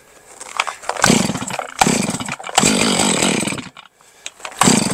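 Two-stroke chainsaw being started: it fires and runs in short bursts that die away, about three times, then catches again near the end. The stumbling is what the owner puts down to the saw running out of gas.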